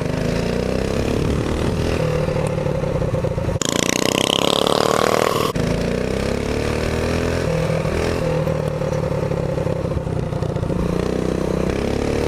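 Mini bike's Predator 212cc single-cylinder four-stroke engine running under way, its pitch rising and falling with the throttle. About four seconds in, a brighter, slightly louder stretch lasts about two seconds.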